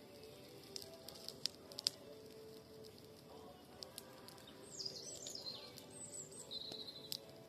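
Wood campfire crackling with scattered sharp pops, while small birds chirp with quick falling calls, most of them in the second half.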